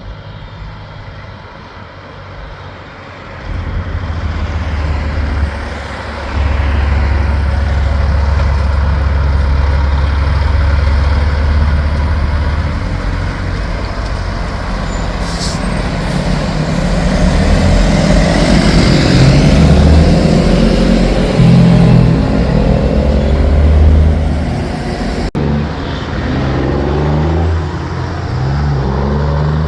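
Diesel engine of a big-rig truck running loud and low. It is quieter for the first few seconds, then grows louder through the middle. Near the end it changes suddenly to another loud truck engine.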